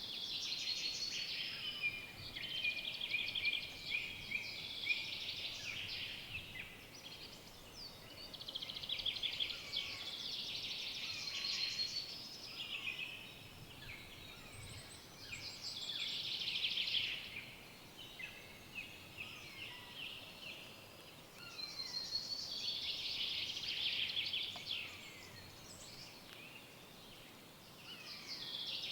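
Forest songbirds singing, with repeated phrases of rapid high trills and chirps, each lasting two to three seconds, over a faint steady background hush.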